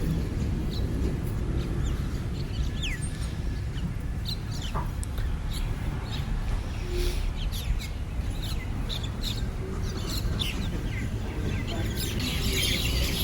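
A flock of common mynas calling and chattering while feeding, with many short scattered calls, over a steady low rumble.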